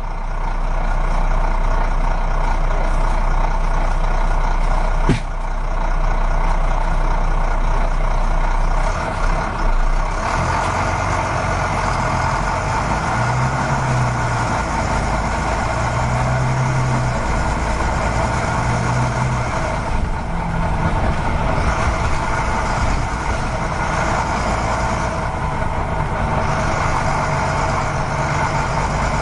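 Radio-controlled model truck running with a steady engine-like drone. There is a single sharp click about five seconds in, and the sound grows fuller from about ten seconds in.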